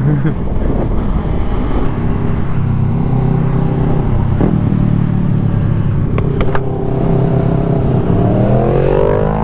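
A vehicle engine running steadily, with the revs rising near the end.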